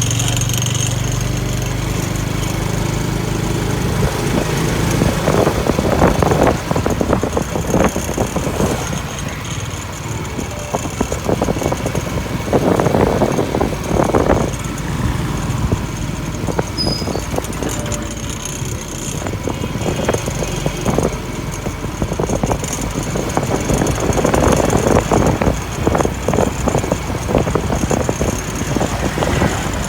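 Street traffic: motor vehicle engines run steadily, with louder swells as vehicles pass, about five seconds in, around twelve to fourteen seconds, and again around twenty-four seconds.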